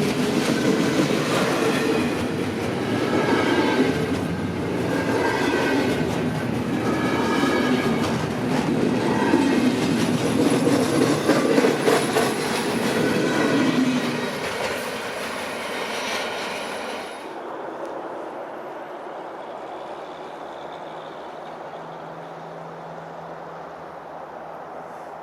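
Alaska Railroad train cars rolling past, wheels on rail with intermittent high-pitched squeals. The sound drops away about two-thirds of the way through, then fades to a quiet hush.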